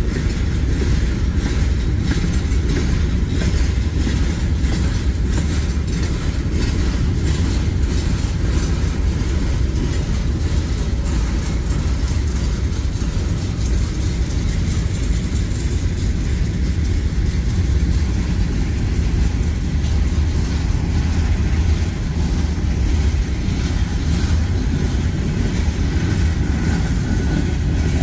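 Freight train of open-top gravel hopper cars rolling past: a steady rumble of steel wheels on rail, with many light clicks from the wheels.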